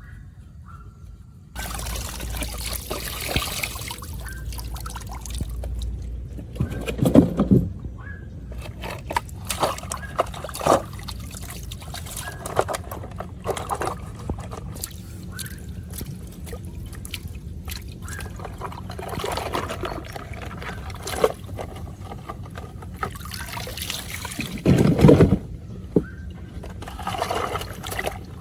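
Water pouring and sloshing, with scattered knocks and clatter of things being handled; a few louder knocks stand out about a third of the way in and near the end.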